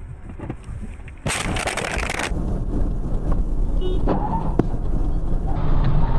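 Car road and engine noise heard from inside the vehicle. About a second in, a loud hiss lasts about a second, then a steady low rumble carries on.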